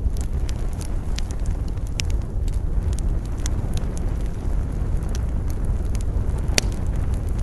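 Campfire crackling: scattered sharp pops and snaps of burning wood, two of them louder, about two seconds in and near the end, over a steady low wind rumble.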